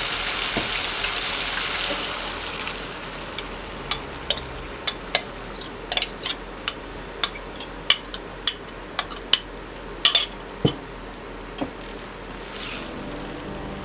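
Onion and tomato sizzling in a frying pan, the sizzle dropping to a quieter hiss after about two seconds as beaten egg is poured in. Then a run of sharp kitchen-utensil knocks, roughly two a second, over the quieter sizzle; music starts near the end.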